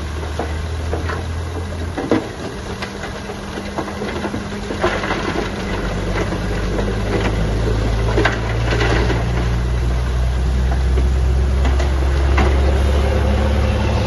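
Diesel engine of heavy construction machinery running steadily, with scattered clanks and knocks. The engine grows louder and deeper from about five seconds in.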